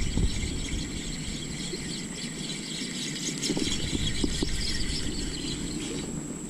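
Fishing reel whirring steadily as line runs through it, stopping abruptly near the end.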